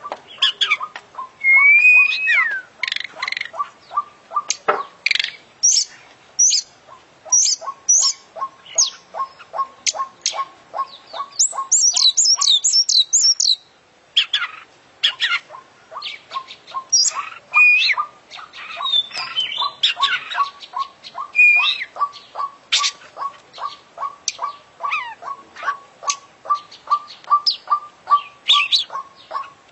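Oriental magpie-robin (kacer) singing a long, varied song packed with mimicked calls: whistles, chirps and harsh notes, with a fast high trill about midway followed by a short pause. Under it runs a steady series of short clicking notes, about three a second.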